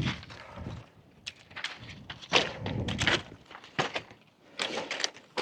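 Footsteps on rocky ground: irregular knocks and scuffs of boots stepping over stones and boulders.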